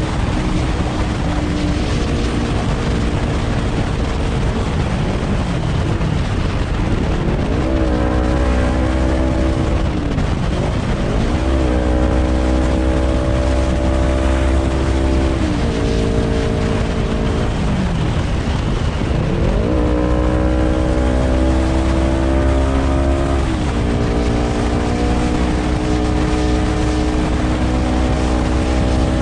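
Honda CBR250RR motorcycle engine running through an R9 H2 titanium full-system exhaust, its pitch climbing and then dropping several times as the throttle is opened and closed.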